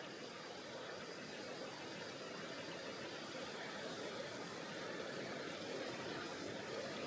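Rushing water of a mountain river, a steady rush that slowly grows louder.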